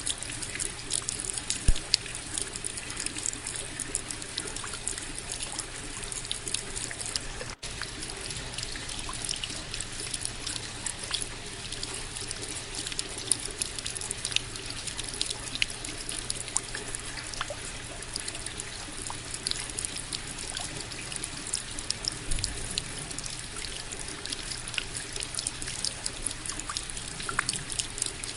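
Steady rain falling, with many close drops ticking and water trickling. The sound cuts out for a split second about seven seconds in.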